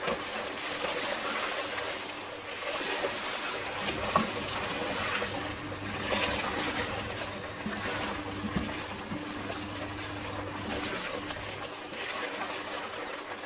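Thick chicken curry gravy sizzling and bubbling in oil in the pot as it fries uncovered, its oil separating to the top, the sign that it is nearly done. A short knock about four seconds in.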